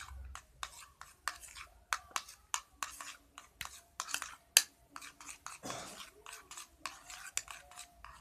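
Glue slime being stirred in a container just after activator is added: irregular wet, sticky clicks and snaps of the stirrer working the thickening mixture, with one sharper click about halfway through.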